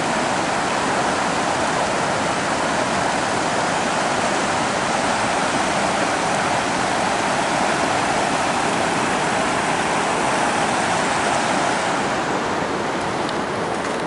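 Water rushing steadily over a small river waterfall, a loud even rush that thins slightly in the highs near the end.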